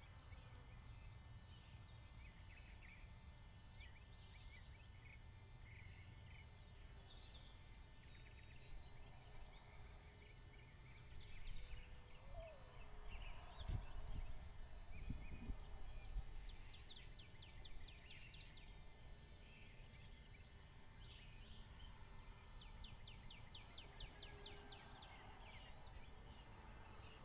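Faint outdoor nest ambience: a low wind rumble on the microphone that swells for a few seconds midway. Small birds call over it, with a short buzzy trill and, later, two fast, evenly pulsed trills.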